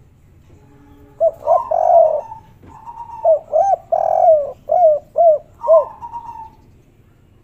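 Spotted doves (tekukur/derkuku) cooing in the 'kuk 3' style, two birds calling over each other. A run of short rising-and-falling coos begins about a second in and ends near six seconds, overlapping a higher, flatter coo.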